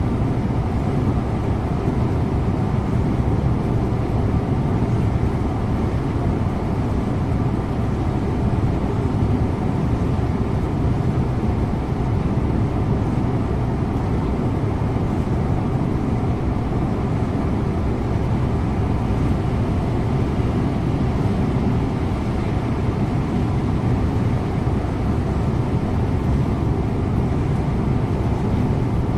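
Scania InterLink bus driving at a steady speed, heard from the driver's seat: an even engine drone mixed with tyre and road noise, with no gear changes or speed changes.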